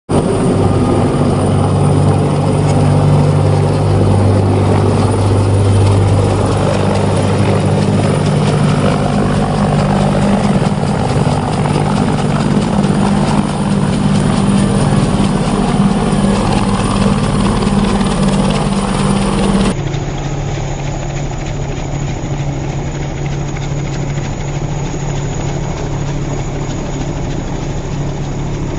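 Helicopter close by as it comes in to land: a loud, steady rotor and engine drone. About two-thirds through, the sound cuts abruptly to a slightly quieter, duller stretch.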